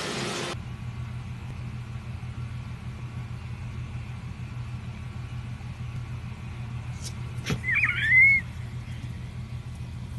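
Steady low rumble of a car, heard as from inside a moving vehicle. A sharp click comes about seven and a half seconds in, followed by a short, high, wavering squeal.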